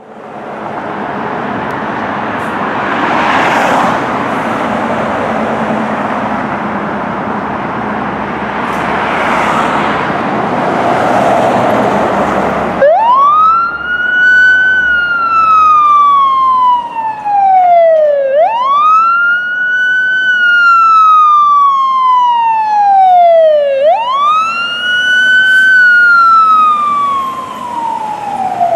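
Fire apparatus responding: for about the first half there is only loud, dense engine and road noise, then a siren starts wailing. Each slow wail climbs quickly and falls away over several seconds, about three cycles.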